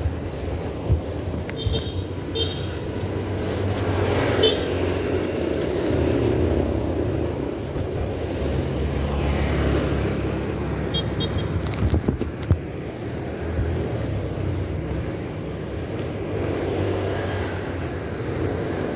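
Steady road traffic noise, with cars passing.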